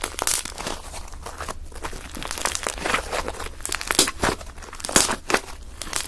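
Fluffy slime made with shaving foam and cornstarch being squeezed and pulled by hand, giving a run of irregular crackly pops and crinkles. The louder pops come about four seconds and five seconds in.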